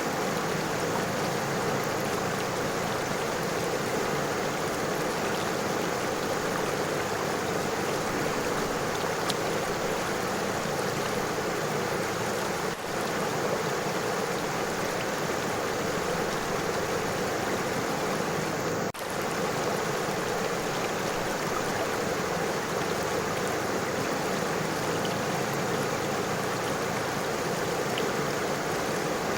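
River water flowing over stones: a steady, even rush.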